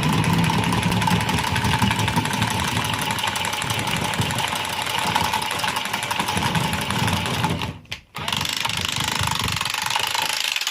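A machine running steadily and loudly, with a low rumble under a hissing noise; it cuts out briefly about eight seconds in, then runs again until it stops abruptly.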